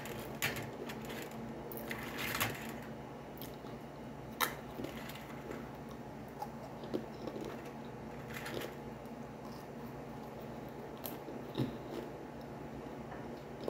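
Someone eating dry crackers: chewing with several short, sharp crunches scattered through, over a low steady hum.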